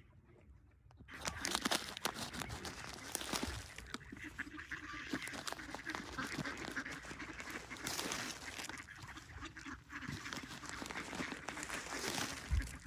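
A flock of ducks quacking, starting about a second in and carrying on as a busy jumble of calls.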